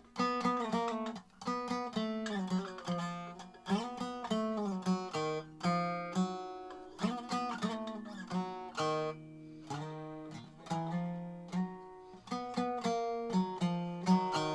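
Gold Tone Paul Beard resonator bass strummed in power chords, a run of repeated strokes, about two to three a second, as a tune in E flat is worked out.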